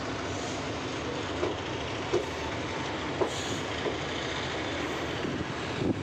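Passenger train running, heard from on board: a steady rumble of the moving coach, with a few sharp clacks of the wheels over rail joints at uneven intervals.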